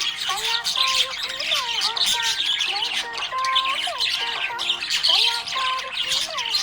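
Budgerigar chirping and chattering without a break: quick, dense high chirps, with lower whistled rising and falling notes coming back every second or two.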